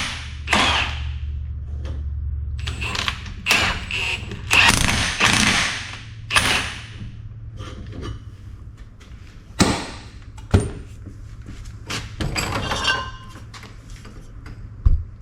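Irregular metal knocks, clanks and scrapes as a 3-inch steel exhaust pipe is worked back into round, with a few sharp clicks, over a steady low hum.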